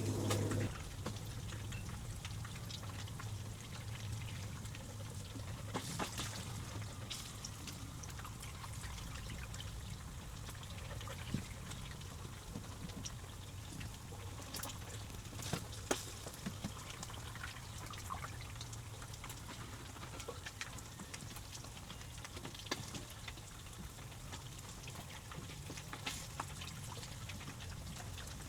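Water trickling and dripping steadily, with a few scattered light clicks and knocks.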